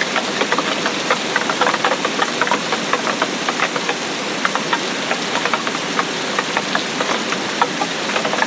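Steady rain hiss with many irregular sharp ticks of drops striking a hard surface.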